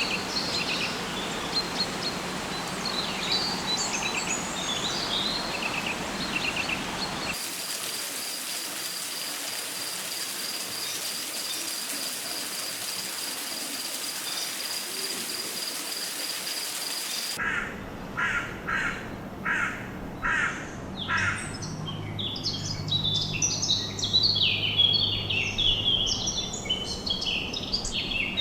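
Rainforest ambience in three abruptly changing parts. First, scattered high bird calls over a hiss. Then, from about 7 seconds in, a steady high pulsing trill typical of insects, and from about 17 seconds loud harsh bird calls repeating under a second apart, giving way to dense chattering calls.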